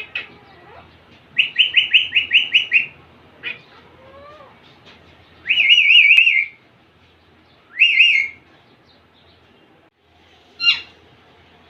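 Indian ringneck parakeet calling: a fast run of about eight sharp chirps, then a warbling trill, a shorter warble, and a short sharp call near the end.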